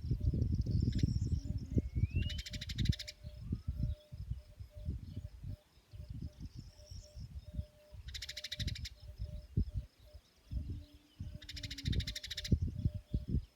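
Outdoor nature ambience: birds chirping over a low, uneven rumble, with a short buzzing trill repeating every few seconds.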